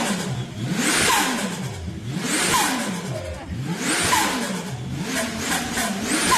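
Toyota 1JZ-GTE turbocharged inline-six revved in about five quick blips. Each time the throttle snaps shut it gives a hissing turbo flutter and a falling whistle as the turbo spools down.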